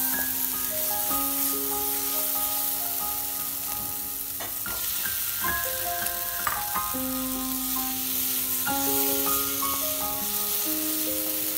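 Potato wedges and spice paste sizzling in oil in a nonstick pan while a wooden spatula stirs them, with a few brief scrapes against the pan near the middle. Slow background music of held notes plays over it.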